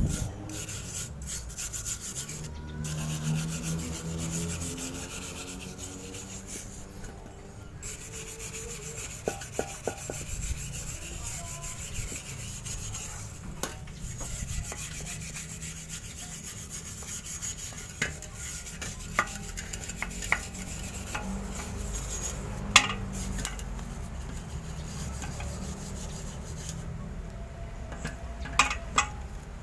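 Fine wire brush scrubbing a chrome motorcycle exhaust pipe, a steady scratchy rubbing with a few sharp knocks in between, as it scours off the yellow discoloration.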